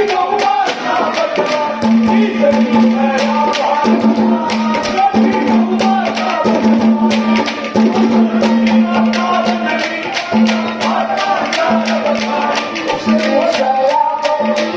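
Live Haryanvi ragni folk music: quick hand-drum strokes under a wavering melody line, with a held low note that stops and restarts every second or two.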